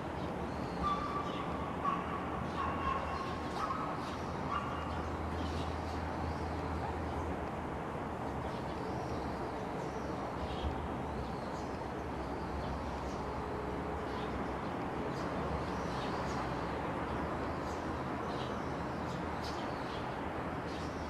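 A steady low rumble with birds chirping now and then, and a dog's drawn-out call, a whine or howl, lasting a few seconds from about a second in.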